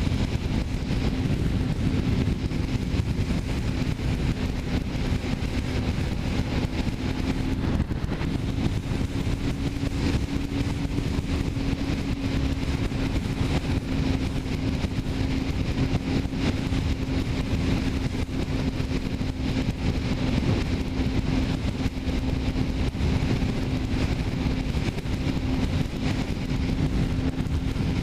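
Kawasaki Ninja 300 parallel-twin engine running at a steady cruise, its pitch holding level under low wind and road rush.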